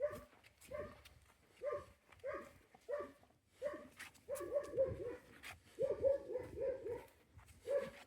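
Dog barking repeatedly: short barks about once a second, with quicker runs of three or four barks a little past the middle.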